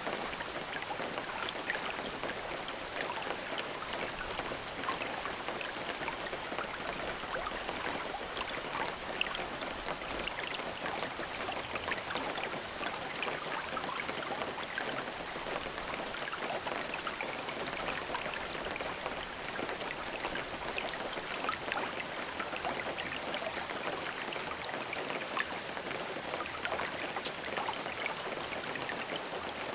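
Steady rain falling, a constant hiss of water speckled with the ticks of single drops striking a surface.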